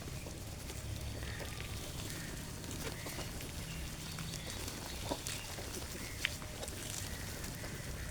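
Birds feeding: scattered sharp taps and a few faint short chirps over a steady low rumble.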